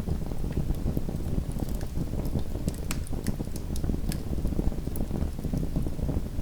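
Small wood fire burning in a fireplace: a steady low rumble of flames with scattered sharp crackles and pops from the burning wood.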